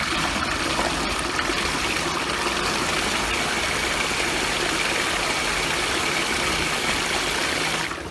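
Florabest FTP 400 D3 submersible sump pump running, its motor hum mixed with a steady rush of water being pumped out of the sump bucket, easing off slightly near the end.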